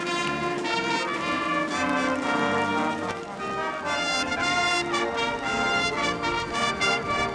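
Sea cadet military band playing, brass instruments to the fore, a slow piece with chords that shift every half second or so.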